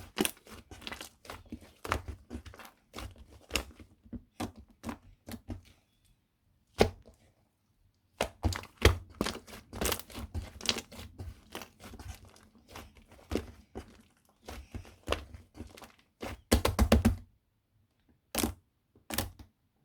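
Shaving foam being mixed and squeezed by hand, making irregular sticky pops and clicks. The pops pause for about two seconds a third of the way in, and come thick and fast near the end.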